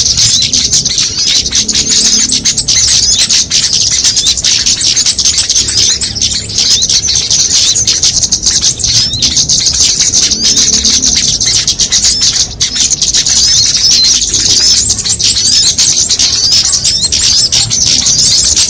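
Dense, continuous chorus of many small songbirds chirping and twittering rapidly at a high pitch, overlapping without pause: a mixed lure-call recording used to draw small birds in for trapping.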